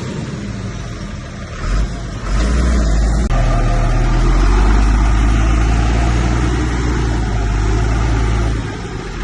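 Heavy diesel engine of a bulldozer working under load. It rises about two seconds in, holds a deep steady drone, then eases off near the end.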